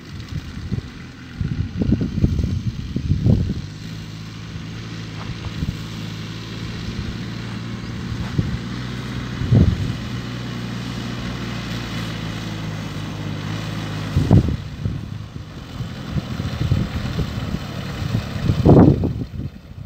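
Tractor engine running at a steady speed, with irregular low rumbles near the start and again in the last few seconds.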